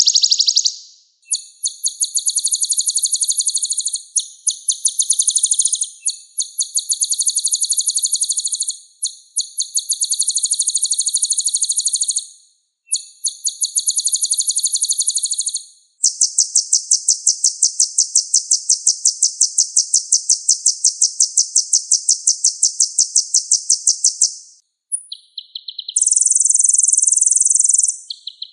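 Kolibri ninja sunbird song: rapid, high-pitched buzzy trills in phrases of two to four seconds separated by short breaks, with one long unbroken trill of about eight seconds past the middle and a few short bursts near the end. The recording is clean, with no background noise.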